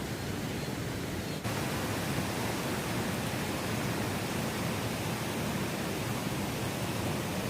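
Steady rain falling, an even hiss without any distinct events. It steps up suddenly in loudness about a second and a half in.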